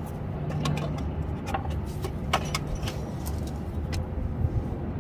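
Scattered light metallic clinks of hand tools and sockets being handled while a socket size is tried on a tie rod bolt, over a steady low rumble.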